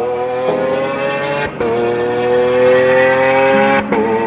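Car engine accelerating hard through the gears. Its pitch climbs steadily, then drops sharply at two gear changes, one about halfway through and one near the end.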